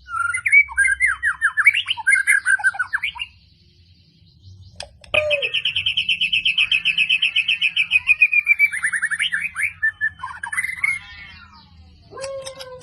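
White-rumped shama (murai batu) singing: a burst of varied whistled phrases, a pause of about two seconds, then a long, fast trill of evenly repeated sharp notes lasting about four seconds, followed by more varied notes. These rapid sharp bursts are the 'tembakan' that bird-keepers prize in a murai batu's song.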